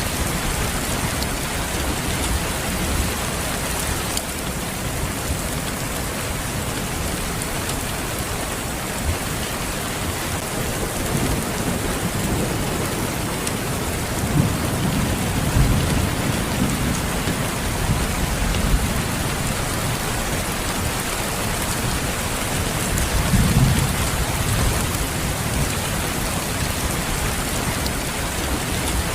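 Steady rain falling, with low rumbles of thunder about halfway through and again about two-thirds of the way in.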